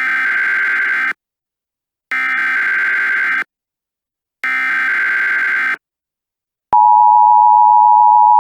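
Emergency Alert System signal: three buzzy SAME header data bursts of just over a second each, about a second apart, then, near the end, the steady two-tone EAS attention signal starting up, announcing a new alert message.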